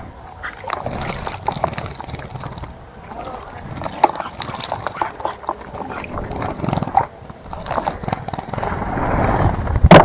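Small birds splashing in a garden bird bath, water sloshing in quick, irregular bursts, with bird calls in the background. A loud knock comes at the very end.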